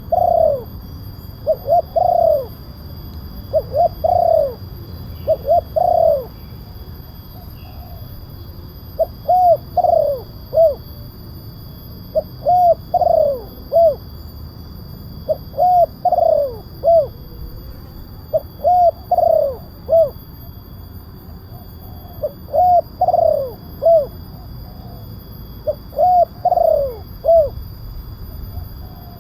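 Spotted dove (tekukur) cooing: phrases of two or three arched hooting notes, repeated every couple of seconds with a short pause about a quarter of the way in, over a steady low hum. It is a recorded lure call for drawing in spotted doves.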